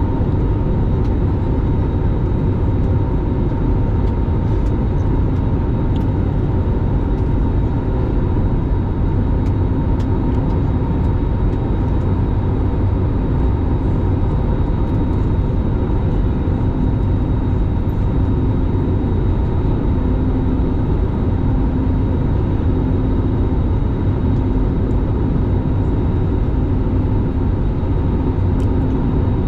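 Steady low engine rumble of a vehicle or aircraft with faint constant whining tones, unchanging throughout.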